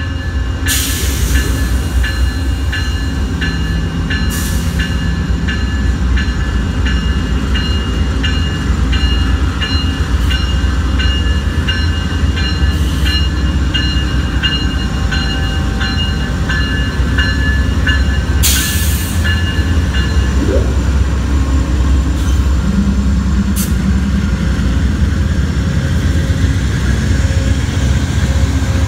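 Amtrak GE Genesis diesel locomotives hauling a passenger train slowly past, their engines running with a steady low rumble. A bell rings about twice a second until about two-thirds through, with a few brief hisses.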